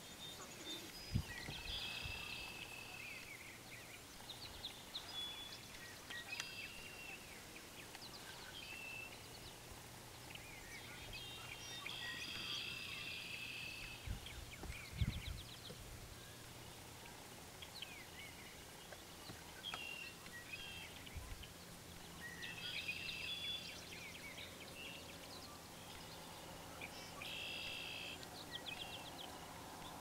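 Songbirds singing, with repeated song phrases one to three seconds long every few seconds over a steady outdoor background. Two brief dull low thumps come about a second in and near the middle.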